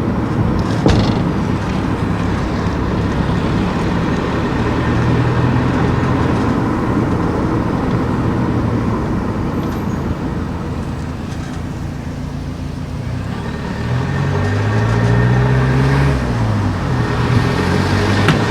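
Car driving with steady engine and road noise. About three quarters of the way in, the engine note rises and falls as the car speeds up and slows.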